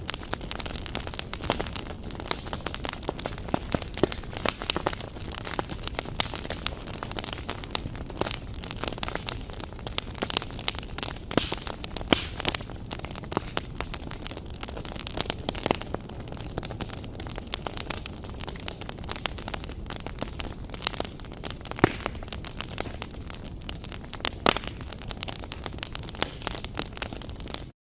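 Wood fire in a fireplace crackling, with a steady hiss and many irregular sharp pops and snaps. The sound briefly cuts out near the end.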